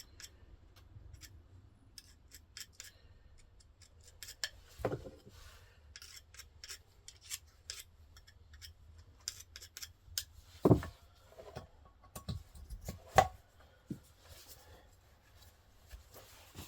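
Poppet valve of a Volvo 1.8 (4184S11) cylinder head being hand-lapped into its seat with fine grinding compound: a gritty scraping in short back-and-forth strokes, with a couple of louder knocks past the middle.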